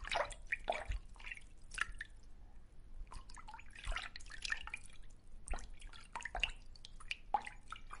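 Underwater bubbling: irregular quick watery pops and drips, several a second, fairly faint.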